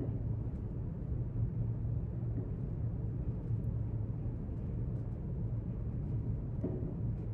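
Steady low hum and rumble of a quiet library's room ambience, with a couple of faint brief sounds near the start and about two-thirds of the way in.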